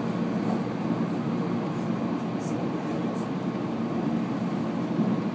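Steady running noise inside a JR 719-series electric train car: an even low rumble of wheels on rail and running gear while the train travels at speed.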